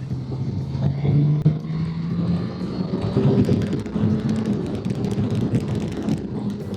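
Motorcycle engine running under way, its note stepping up about a second in, with wind noise on the microphone.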